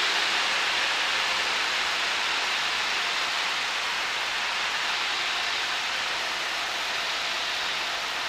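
Steady rushing cabin noise of a Cessna 152 in flight on approach, a blend of engine and airflow with no distinct engine note standing out, easing off slightly over the seconds.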